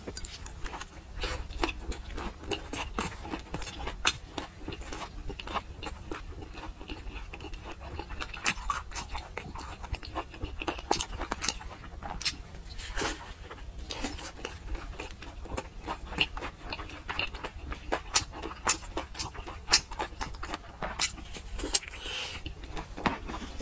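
Close-miked wet chewing and lip smacking of a person eating braised meat: a steady, irregular run of short sticky clicks.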